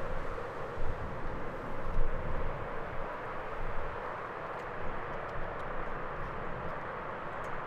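Distant jet airliner engine noise, a steady rushing, with irregular low rumble from wind on the microphone in the first half.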